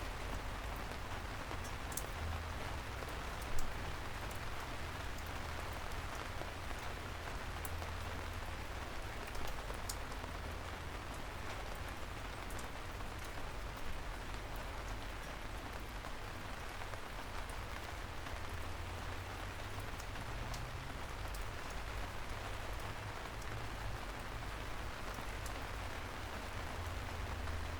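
Steady soft rain falling on a city street, with scattered single drops ticking close by and a low steady rumble underneath. One drop hits louder about three and a half seconds in.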